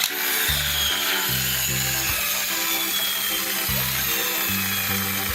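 High-pitched whirring hiss from a toy bullet train's small electric motor running, starting suddenly and then holding steady, over background music with a repeating bass line.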